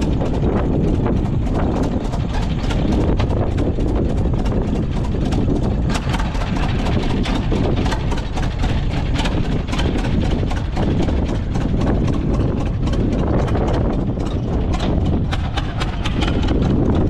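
A farm machine's engine running steadily, with a rapid irregular clatter of clicks over a deep continuous rumble.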